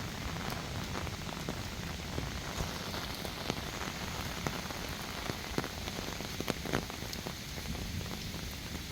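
Heavy rain falling steadily, a dense hiss with many sharp individual drops striking close by.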